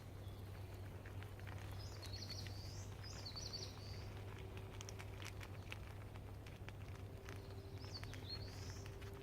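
A songbird giving three short phrases of high, swooping chirps, about two seconds in, about three and a half seconds in and near the end, over scattered small crackles and clicks.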